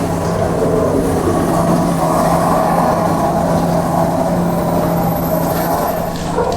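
Heavy demolition excavator running steadily: a constant diesel engine hum with a grinding, mechanical noise over it.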